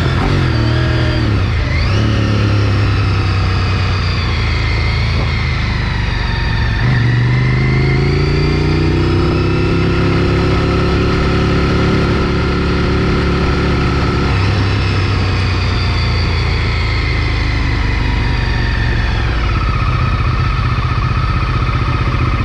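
Sport motorcycle engine at high revs, its pitch climbing through each gear and dropping abruptly at the gear changes, several times.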